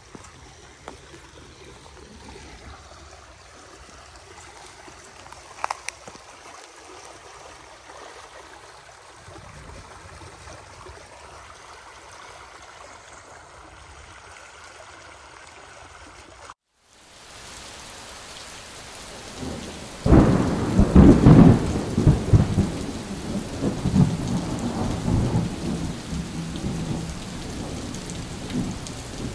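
Steady rain hiss, then a loud rolling thunderclap about two-thirds of the way in: a deep crackling rumble that peaks for a few seconds and trails off while the rain keeps falling.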